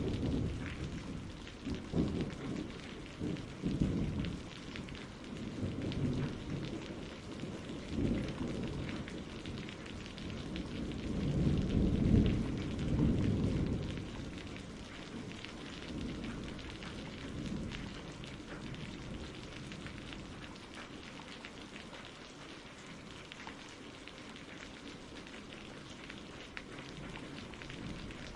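Steady rain with rolling thunder. The rumbles swell a few times, loudest about twelve seconds in, then die away, leaving only the rain.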